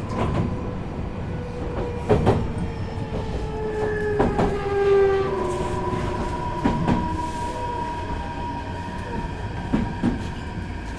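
Meitetsu 4000 series electric train, heard from inside the car, braking into a station. The motor inverter's tones slide slowly down in pitch as it slows, over a low running rumble, with a few sharp knocks from the wheels every two or three seconds.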